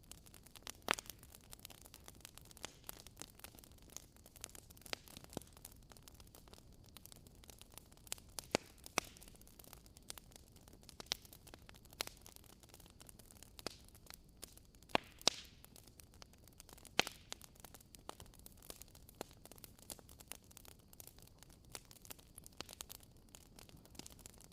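Wood fire crackling in a fireplace: irregular sharp pops and snaps over a faint hiss, with a few louder pops.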